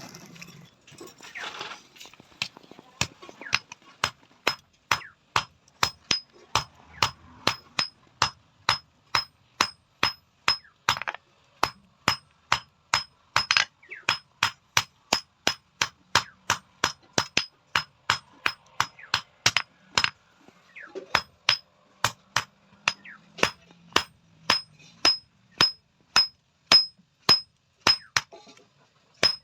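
Hand hammer beating an iron roti tawa, a steady run of about two to three blows a second, each with a high metallic ring. The blows start a few seconds in and break off briefly about two-thirds of the way through.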